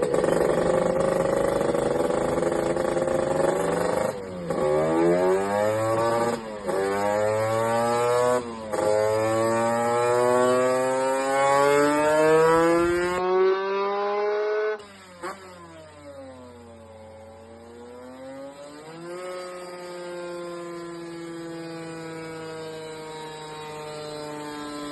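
Kawasaki Ninja RR 150's single-cylinder two-stroke engine, breathing through an HBY titanium racing exhaust, run hard on a dynamometer. It revs up through the gears, the pitch climbing with brief dips at three gear changes. About 15 seconds in the throttle closes and the engine winds down, then runs on quieter at a lower speed.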